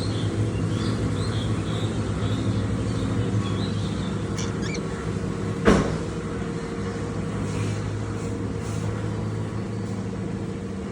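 Steady low mechanical hum, with a few short high chirps from lovebirds in the first half. A single sharp knock comes about halfway through.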